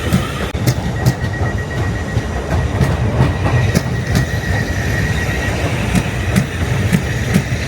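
Suburban electric train moving slowly along the platform: a steady low rumble of running gear with irregular clacks and knocks as the wheels cross rail joints and points, and a faint high wheel squeal for a few seconds early on.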